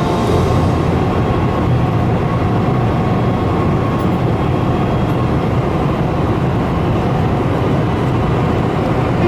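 Steady low rumble and hiss of a moving vehicle, unchanging throughout.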